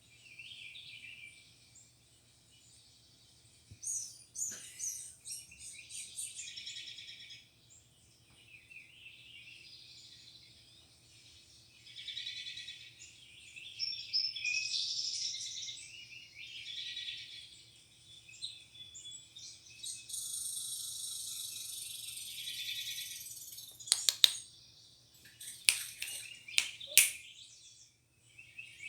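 Small birds chirping and twittering in irregular bursts, from a video of birds played back. A few sharp clicks or taps come near the end and are the loudest sounds.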